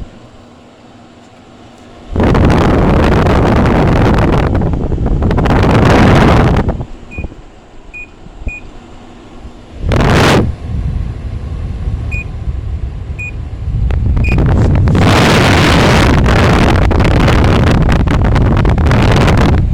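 A window air conditioner's control panel beeping as it is switched on: six short high beeps in a middle stretch, between loud rushing bursts of wind noise on the microphone.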